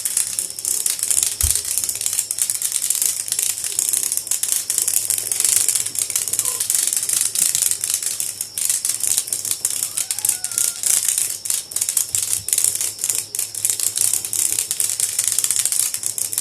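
Cicada buzzing: a loud, high-pitched rattle of rapid clicks that keeps going without a break.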